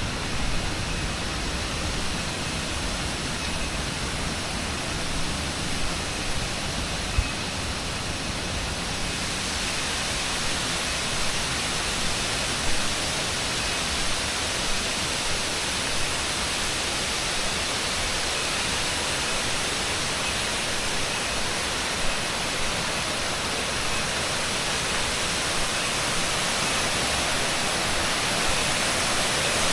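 Steady rushing roar of a waterfall, growing brighter and a little louder from about a third of the way in, with a few soft knocks over it.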